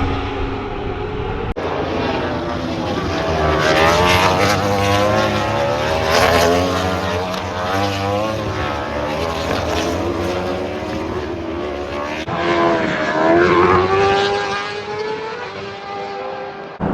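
Superbike racing motorcycles passing at speed, high-revving engines sweeping up and down in pitch as each one goes by. The sound cuts abruptly about a second and a half in and again around twelve seconds in.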